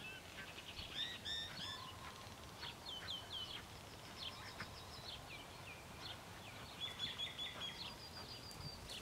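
Birds calling: clusters of short repeated chirps and quick sliding whistles, over faint outdoor background noise.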